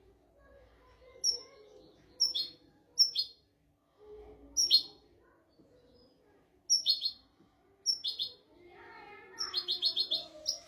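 European goldfinch singing: sharp, high chirps spaced about a second apart, then a quick run of about five notes near the end.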